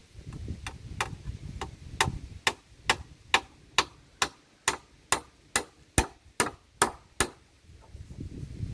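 A steady series of sharp knocks, about two a second and some fifteen strokes, getting louder after the first few, with low rustling before and after.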